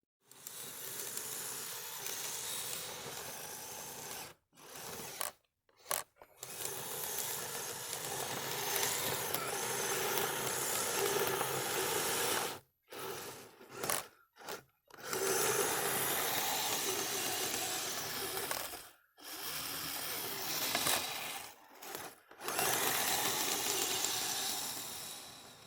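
Kyosho Blizzard RC tracked snow vehicle's electric drive running under throttle in long stretches, cutting out briefly about ten times as the throttle is let off and applied again.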